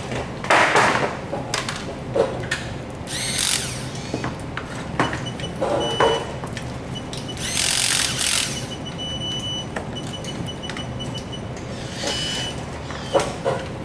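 Workshop tool noise: four short bursts of a power tool, with clicks and knocks of handled metal parts between them over a steady low hum.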